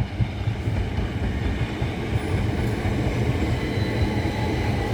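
Class 375 Electrostar electric multiple unit running past at close range: a steady, dense rumble of wheels and running gear. A faint steady whine joins in over the second half.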